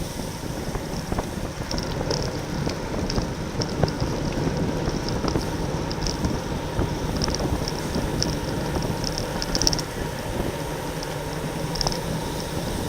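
Wind rushing over the microphone of a bicycle-mounted camera, with road and tyre noise from a bike racing in a criterium pack. Short, high-pitched ticks come and go throughout.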